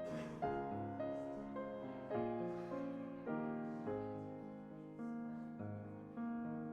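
Piano playing slow, quiet chords; each chord is struck and left to fade before the next, about one a second.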